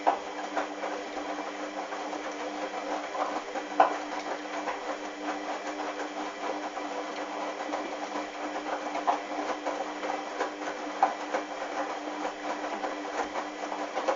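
Hoover washing machine tumbling a wet, sudsy load of towels in the wash: the drum motor hums steadily while the load gives off irregular clicks and knocks.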